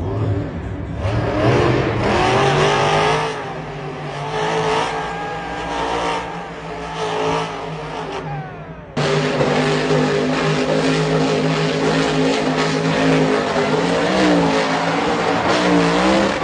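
Monster truck engines revving hard, the pitch rising and falling in repeated surges. About nine seconds in, the sound cuts abruptly to a louder, steadier engine note that climbs twice near the end.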